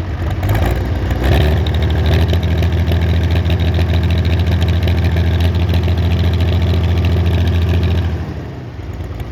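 Allis-Chalmers D17 diesel tractor engine running with its exhaust pulled off. It speeds up about a second in, holds steady, then slows back near the end. The owner thinks it sounds like it is missing a little.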